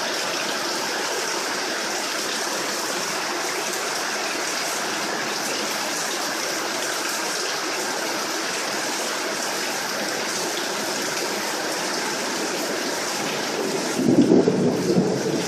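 Steady heavy rain falling, an even hiss. Near the end comes a louder low rumble lasting about a second and a half.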